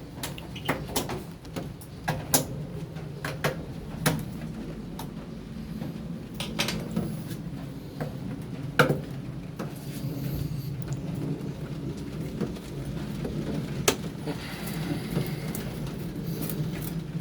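Irregular sharp clicks and knocks of plastic and metal washing machine parts being handled and worked loose, over a steady low hum.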